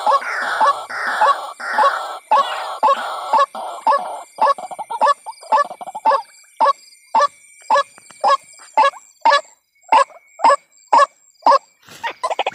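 White-breasted waterhen calling: a steady series of harsh, croaking notes at about two a second. For the first few seconds the notes are rough and run together; after that they are short, separate notes, and a faster run of calls starts right at the end.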